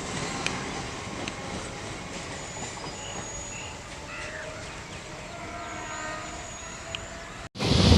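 Chennai suburban electric multiple-unit train running: a steady train noise with faint drawn-out tones and a few light clicks. Near the end it cuts off abruptly and gives way to much louder train noise.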